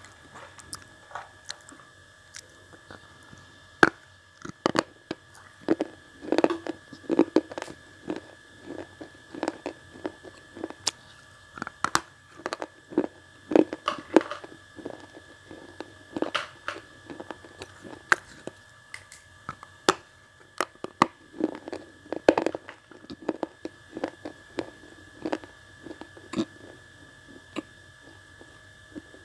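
Red slate blocks (compressed slate-pencil clay) being bitten and chewed right at an earphone microphone held to the mouth: a run of sharp, irregular crunches.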